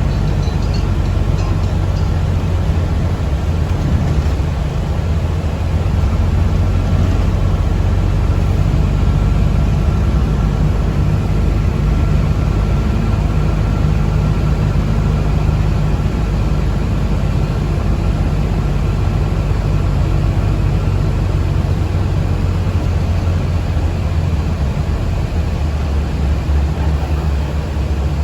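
Cabin noise of a moving city bus: a steady low drone of the drivetrain and road rumble, with a faint high whine throughout.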